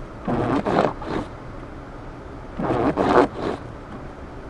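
Car windshield wipers sweeping snow across the glass, a scraping swish out and back, repeating twice about two and a half seconds apart, over the car's steady low road rumble inside the cabin.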